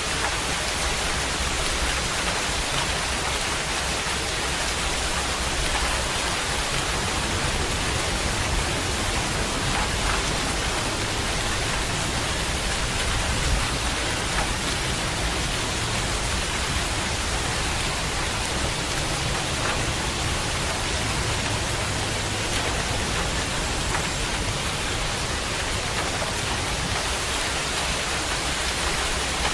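Steady, even rain with a constant hiss and a few faint individual drop ticks.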